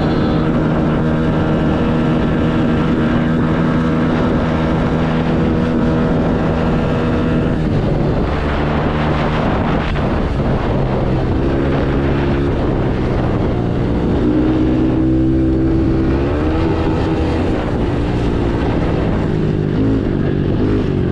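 110cc dirt bike engine running hard. Its pitch holds steady for the first several seconds, then falls and climbs again several times as the revs change.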